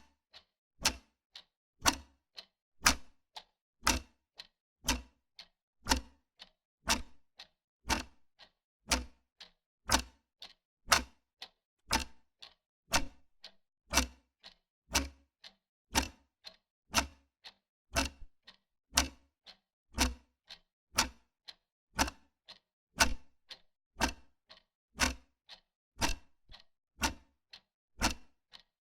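Wall clock ticking steadily: sharp mechanical clicks at an even rhythm, a louder tick about once a second with a softer tock between.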